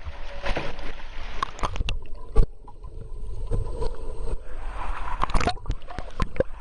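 Kayak and paddle working in pool water: irregular splashing and gurgling with short slaps on the surface, the loudest a sharp slap or knock about two and a half seconds in.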